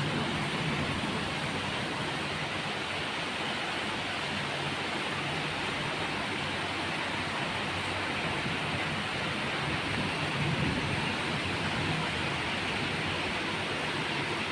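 Heavy rain falling steadily, an even hiss of downpour with no pauses.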